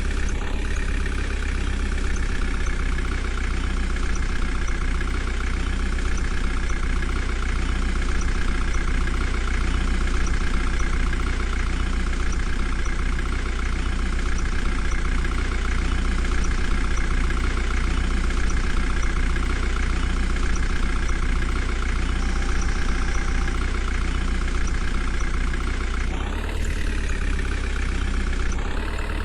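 Diesel engines of a JCB 3DX backhoe loader and a farm tractor running steadily under work, the pitch rising near the end as the revs go up, twice.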